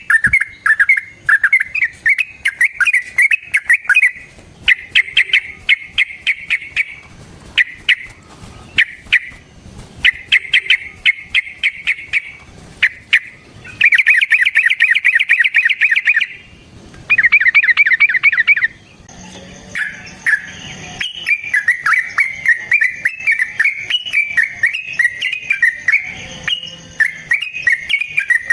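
Yellow-vented bulbul (trucukan) calling in fast chattering runs of repeated notes, several bursts of one to two seconds each with short breaks. In the last third it turns into a longer, more varied song that rises and falls.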